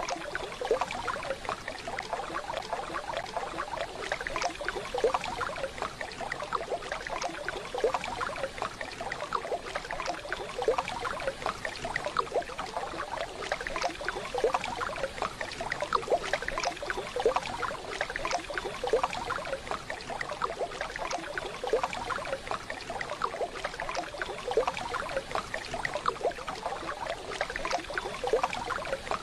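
Running water of a waterfall or stream, a steady rush with dense, irregular splashing and trickling.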